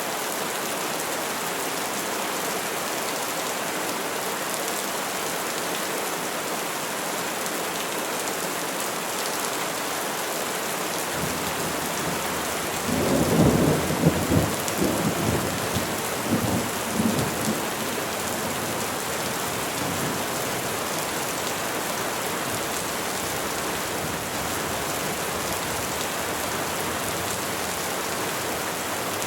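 Steady rain falling on trees. Near the middle a low rumble of thunder swells, rolls in a few surges and fades away over several seconds.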